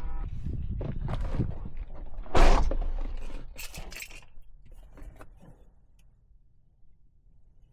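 Clatter and knocks of objects being handled, with the loudest knock about two and a half seconds in and a few lighter clicks after it, dying away in the last couple of seconds.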